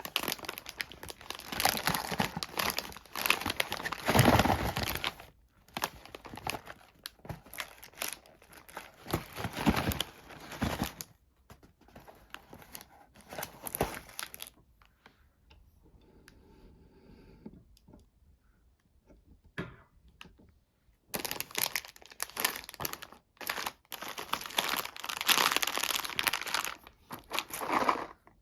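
Wrapper of a chocolate sweet crinkling and tearing as it is handled and unwrapped, in long dense stretches with a quieter pause of several seconds in the middle.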